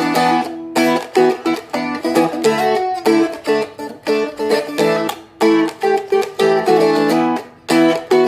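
Seagull Merlin M4, a four-string fretted dulcimer-style instrument, strummed in a rhythmic chord pattern, with the strings hit and muted between strums so the chords are cut off short.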